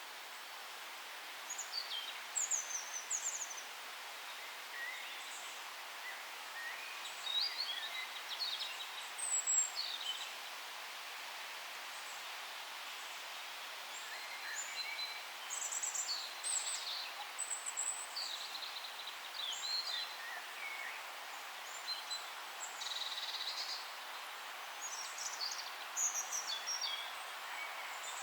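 Several songbirds calling and singing in a forest: short high chirps and trills come in bursts over a steady soft background hiss.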